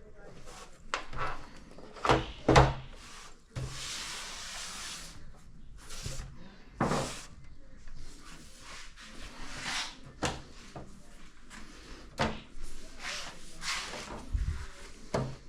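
Irregular knocks and clicks of hard parts being handled, with a longer rustling scrape about four seconds in.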